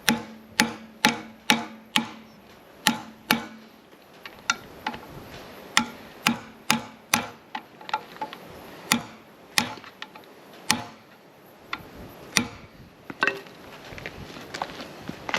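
Sharp metallic clicks and knocks of hand tools on metal during mower disassembly, irregular, about two a second at first and then more scattered.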